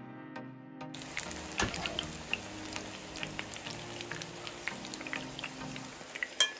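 Eggplant slices frying in hot oil in a pan: a steady sizzle, thick with crackles and pops, starting about a second in. Background music plays under it.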